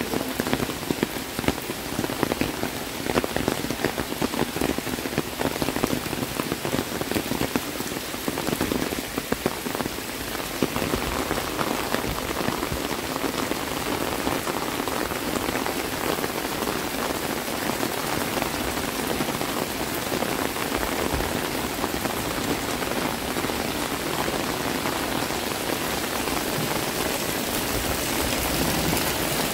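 Heavy rain falling on surfaces close by: dense sharp drop hits over the first ten seconds or so, then a steadier hiss.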